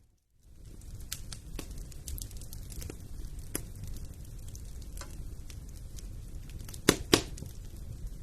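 Fire in a fireplace crackling, with a low steady rumble under scattered sharp pops; two loud pops come close together near the end. The sound drops out briefly at the very start.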